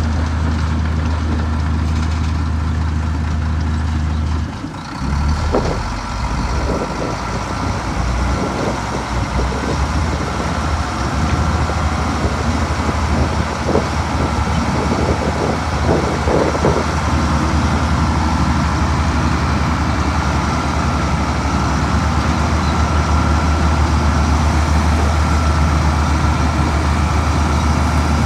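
Heavy diesel engine of earthmoving machinery running with a steady low hum. It dips briefly about four seconds in, then picks up again with scattered knocks and clanks for the next several seconds.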